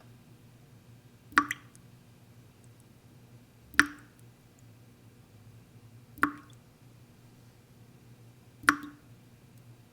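Water dripping slowly, one drop at a time, four drops about two and a half seconds apart, each a sharp plink: the slow drip of a leaking tap.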